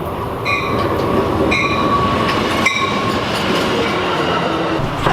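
Passenger train pulling into the station, a loud steady rumble of wheels on the rails. A bell-like tone rings about once a second through the first half.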